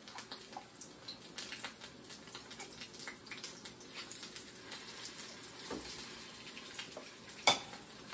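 Ham and potato cakes frying in corn oil in a skillet: a light, steady sizzle full of small crackles. A metal spoon clicks against the pot as the mixture is scooped, with one sharper clink near the end.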